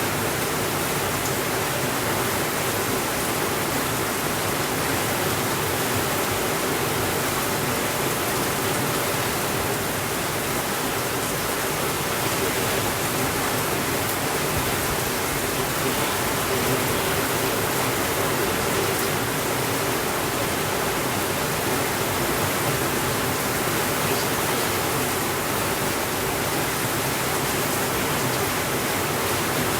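Steady rainfall, an even hiss that holds at one level with no thunder.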